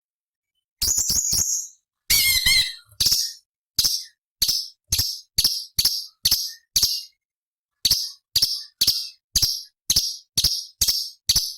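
Cucak cungkok (a leafbird) calling: after a short silence, a quick burst of notes and a brief warbled phrase, then a steady run of sharp, high chip notes about two a second.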